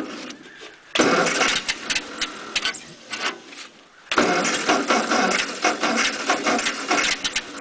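The 6-volt starter cranks the 1948 Ford 8N tractor's engine on a cold start in two bursts, one about a second in and a longer one from about four seconds in; the engine does not catch. The owner says the engine floods easily and is not sure whether it is flooded or needs the choke.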